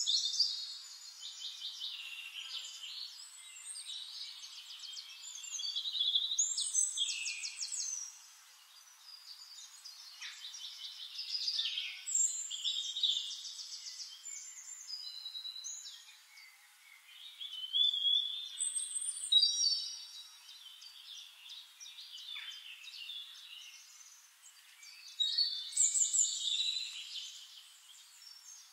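Songbirds chirping and singing in fast trills and quick rising and falling calls, in louder phrases every few seconds, with no low sound at all.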